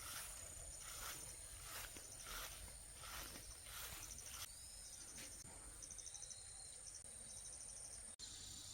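Late-summer crickets and other insects chirping: a steady high-pitched trill with trains of rapid chirps over it, and a regular pulsing call about twice a second in the first half. There is a brief break about eight seconds in.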